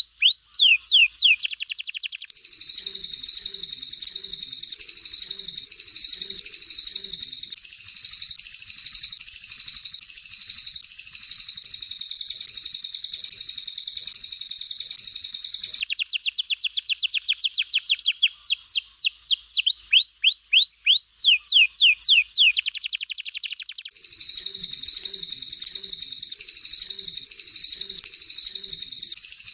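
Recorded birdsong of a canary and a cililin, used as mastering material, with the two alternating. Bursts of fast, downward-swept whistled notes come at the start and again a little past the middle. Between and after them run long stretches of dense, continuous, high-pitched warbling.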